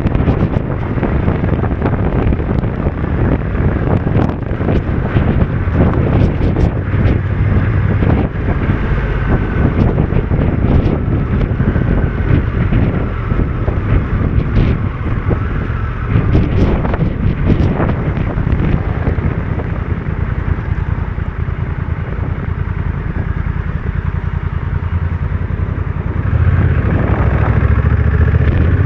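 Honda NT1100's parallel-twin engine running at road speed, mixed with heavy wind buffeting against the microphone. The engine grows louder near the end.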